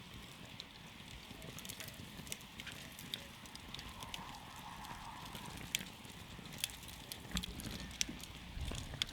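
Campfire of burning wood crackling, with sharp irregular pops and snaps over a low, steady rumble of the flames.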